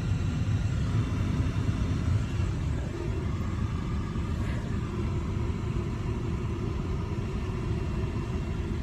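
A parked car's engine idling, a steady low rumble heard from inside the cabin.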